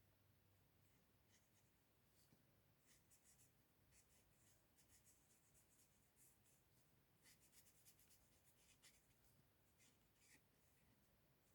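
Faint scratching strokes of a Stampin' Blends alcohol marker's brush tip on cardstock, colouring in short repeated passes.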